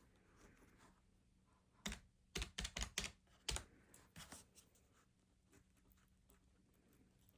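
Keys tapped in a quick run of about eight sharp presses, starting about two seconds in and lasting some two seconds, against near-silent room tone.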